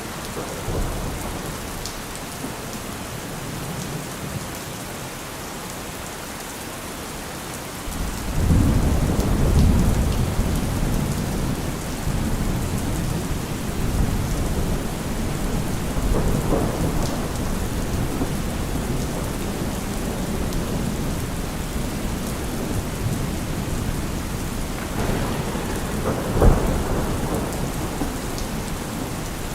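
Steady rain with thunder. A long low rumble rolls in about eight seconds in and keeps swelling and fading, and a sharper thunderclap comes near the end.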